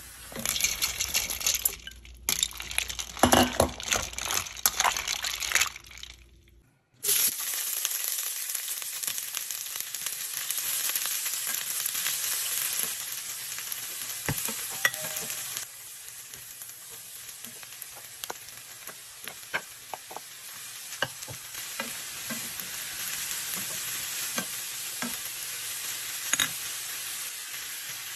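Onions, garlic and then sliced bitter melon sizzling in oil in a frying pan, a steady hiss with scattered clicks as a spatula stirs against the pan. Before the sizzling starts, a louder, irregular stretch of noise runs for about six seconds and breaks off in a brief silence.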